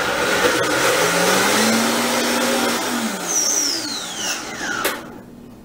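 Countertop blender running, puréeing silken tofu with oil and lemon juice into a creamy tofu mayonnaise. The motor's pitch rises and holds, then a whine falls steadily as it spins down. It stops with a click about five seconds in.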